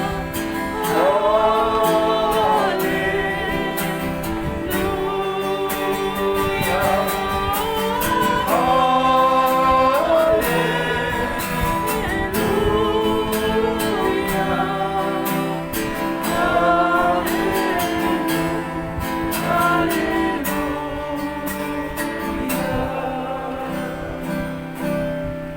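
Congregation singing a hymn together, accompanied by a strummed guitar; the music dies down near the end.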